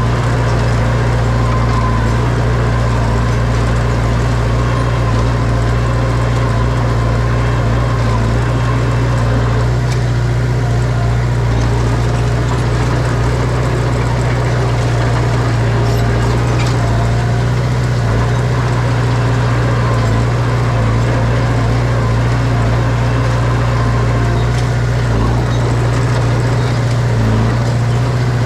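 Heavy earthmoving machine's diesel engine running steadily, with a low, even drone that holds the same pitch throughout.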